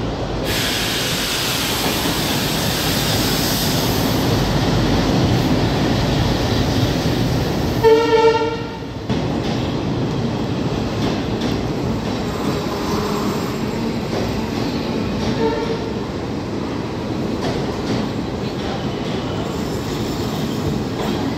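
A passenger express hauled by twin WDM-3A diesel-electric locomotives running into a station, with a steady rumble of engines and wheels on the rails as the coaches roll past. A train horn sounds once for about a second, the loudest moment, about eight seconds in, and a shorter, fainter horn comes later.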